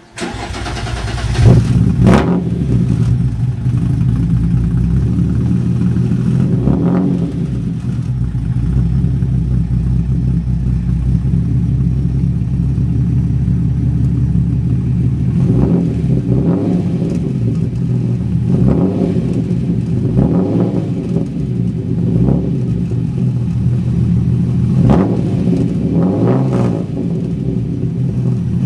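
TVR T350c's 3.6-litre straight-six starting and then idling through a de-catted straight-through exhaust with Cherry Bomb silencers. The owner blips the throttle several times, with short revs about 2, 7, 16, 19 to 20 and 25 to 27 seconds in.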